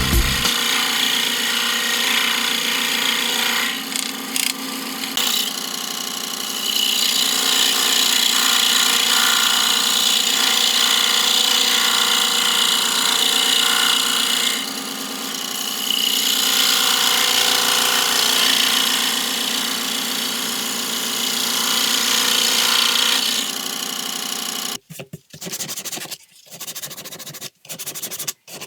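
Electric power tool working wood: a steady motor hum under a harsh rubbing noise that eases off briefly twice. It stops about 25 seconds in, and short, broken scraping sounds follow.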